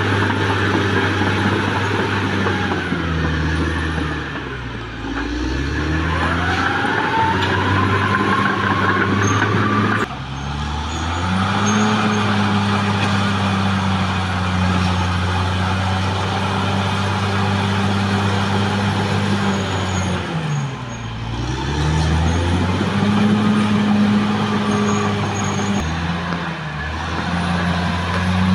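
Caterpillar D6R XL bulldozer's diesel engine working under load. It lugs down hard twice, about four seconds in and again about twenty seconds in, and climbs back up to speed each time. A whine rises as it recovers from the first dip.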